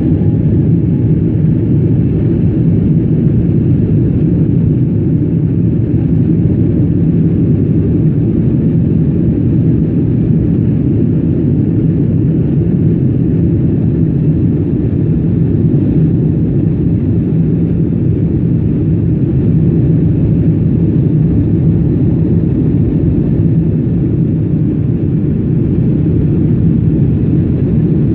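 Boeing 777 airliner during take-off, heard from inside the cabin as a loud, steady, low rumble of engine and airframe noise that does not change.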